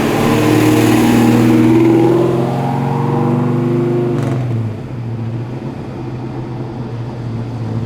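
Ford Falcon XW's engine running at low revs, close by. Its steady note sags in pitch and drops away about four and a half seconds in, leaving a quieter, steady engine sound.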